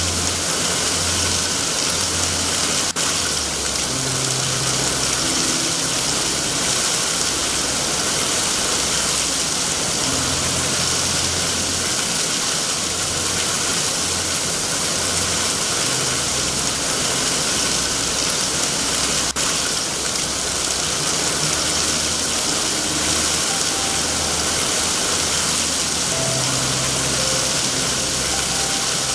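Steady heavy rain hiss over a low, uneven rumble.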